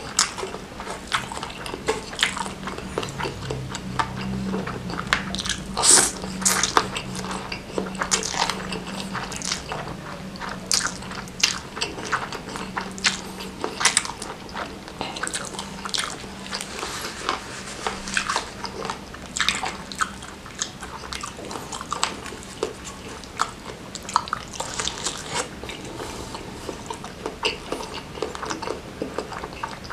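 Close-miked chewing and wet mouth sounds of a person eating spicy fried noodles and tendon beef meatballs, with frequent sharp smacks and clicks throughout.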